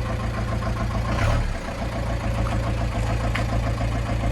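1996 Ford Transit's 2.5-litre diesel engine idling with an even, rapid beat. The engine has a fault that the people judging it call very serious and think is beyond saving.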